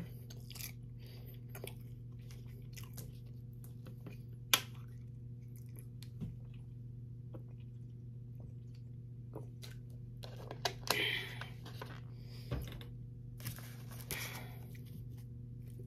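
Close-miked chewing and mouth sounds of someone eating, with scattered sharp clicks and a steady low electrical hum underneath.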